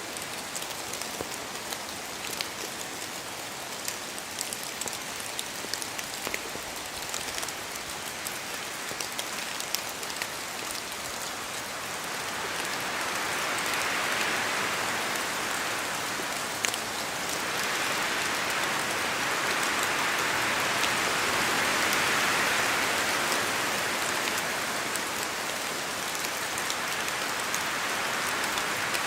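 Rain pattering steadily in a forest, with many separate drops ticking as they fall from the trees. The hiss swells twice, once about halfway through and again a few seconds later, as gusts of wind pass.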